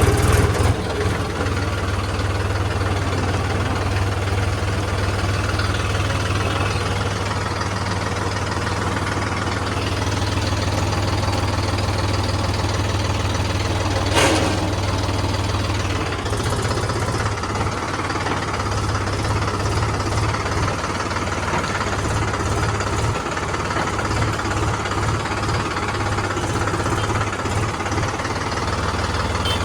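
Diesel engine of heavy machinery running steadily at idle. A single brief sharp knock comes about halfway through.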